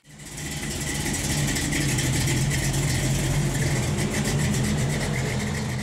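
A car engine running steadily with a low rumble, fading in over about the first second.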